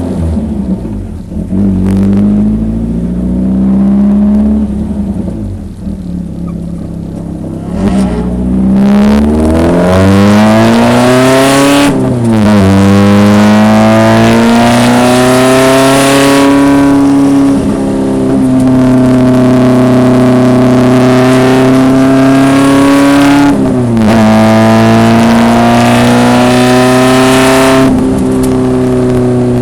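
1974 BMW 2002 race car's engine running at low, steady revs, then revving up under acceleration from about eight seconds in. The revs drop sharply and climb again about twelve seconds in, hold high and steady, and dip again about twenty-four seconds in.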